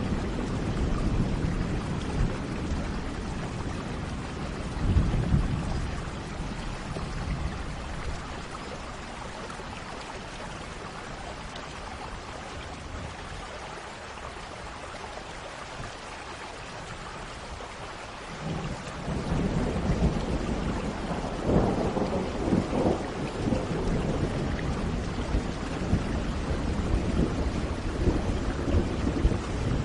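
Thunderstorm: steady rain with rolling thunder. Thunder rumbles at the start and cracks about five seconds in, fades to rain alone for a while, then a long, loud roll of thunder builds about two-thirds of the way through and keeps rumbling to the end.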